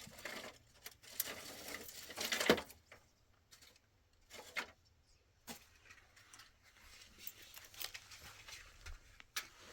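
Rustling and handling noises with scattered light taps and clicks. A longer rustle starts about a second in and ends in a sharp tap about two and a half seconds in; single clicks follow later.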